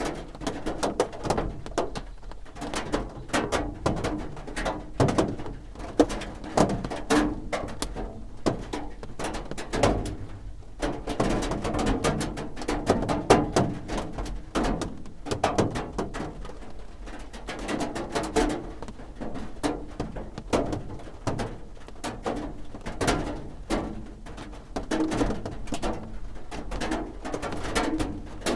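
Raindrops drumming on a roof: a dense, irregular patter of individual drops knocking.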